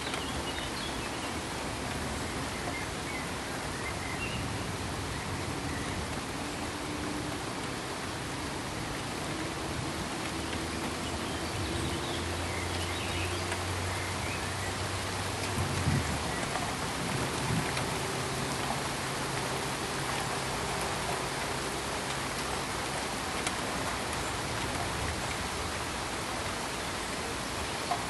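Steady pink noise, an even hiss. Faint low hums sit under it through the middle, and a brief knock comes about sixteen seconds in, with a smaller one soon after.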